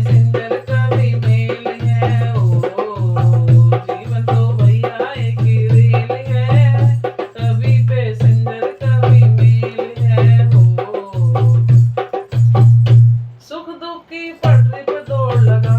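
A Hindi devotional bhajan being sung over a steady low hand-drum beat with a shaker-like rattle. The drum drops out for about a second near the end before the beat resumes.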